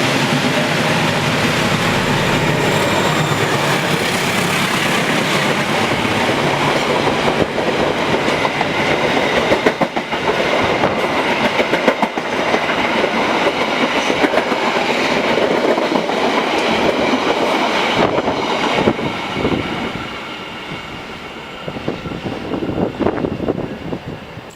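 A train passing close by at speed: a loud, dense rush of wheel and rail noise with rapid clicks of the wheels crossing rail joints, easing off about twenty seconds in as it goes by.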